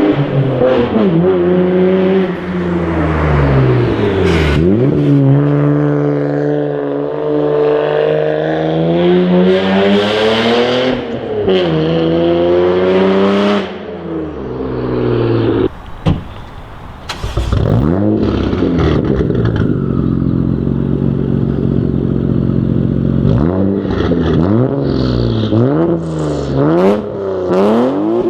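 Toyota JZX90 Mark II's 1JZ-GTE twin-turbo straight-six accelerating hard through the gears, its exhaust note climbing in pitch and dropping at each shift. It eases off about halfway through, runs steadily for a few seconds, then gives several short revs near the end.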